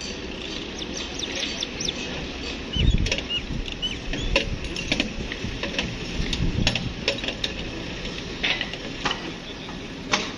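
Small birds chirping and twittering repeatedly, with sharp clicks, over a low background rumble and a dull thump about three seconds in.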